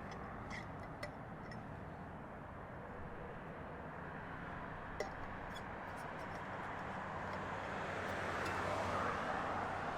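Distant aircraft noise: a steady rumble and hiss that slowly swells over the last few seconds, with a couple of faint clicks.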